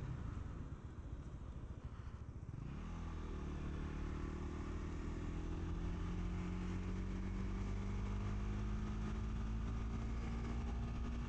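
Honda CBR150R's single-cylinder four-stroke engine running under a steady rush of wind noise while riding. The engine note falls away and goes ragged for the first couple of seconds, then from about three seconds in it comes back and climbs slowly and steadily in pitch as the bike pulls.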